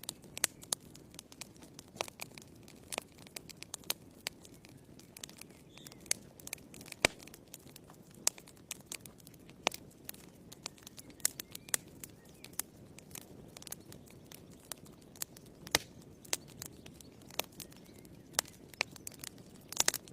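Wood logs burning in a fireplace, crackling with irregular sharp snaps and pops over a soft low rush of the flames.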